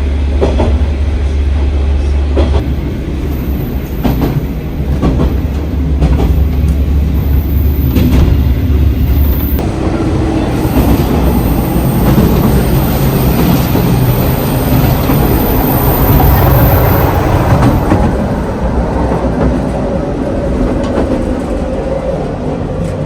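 Train running along the track, wheels clacking over rail joints with a steady low hum and rumble that swells around the middle.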